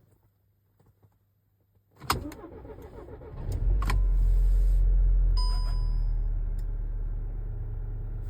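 Volkswagen Passat CC engine cold-starting: the starter cranks about two seconds in, and the engine catches a second and a half later. It flares to a high idle, then eases down to a steady cold-start idle. A short electronic beep sounds about halfway through.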